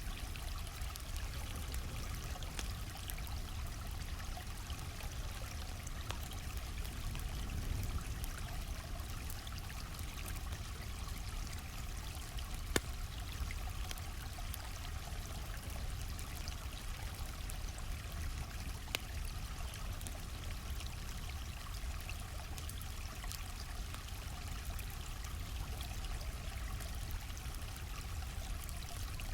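Stream flowing steadily, with scattered sharp crackles and snaps from a campfire; the loudest snap comes a little under halfway through.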